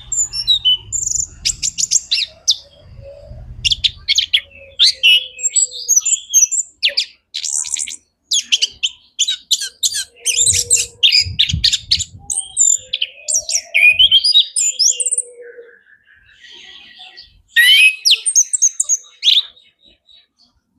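Orange-headed thrush singing a long, varied song of quick whistled phrases, rapid trills and chattering notes, packed close together with a short pause about two-thirds of the way through.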